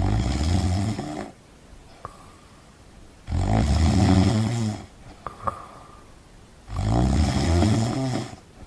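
Snoring: three loud snores, each about a second and a half long, coming roughly every three and a half seconds with quiet gaps between.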